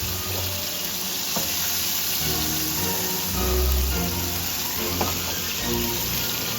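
Food frying in hot oil: a steady sizzle as it turns golden.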